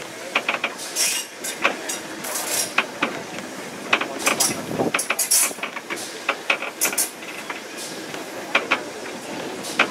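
Railway carriage in motion, heard from an open-sided coach: a steady running noise from the wheels on the rails with irregular sharp clicks, clanks and rattles from the wheels and carriage.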